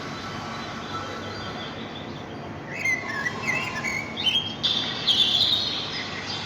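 Birds chirping over a steady background hiss. The quick, high chirps start about three seconds in and keep coming.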